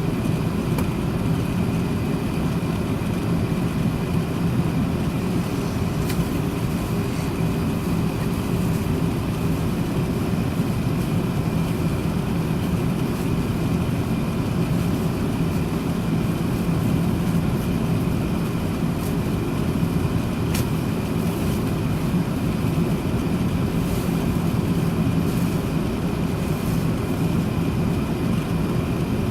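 Steady low rumble of an Airbus A380-861's GP7200 engines and airflow heard from inside the passenger cabin, with a faint high hum running through it.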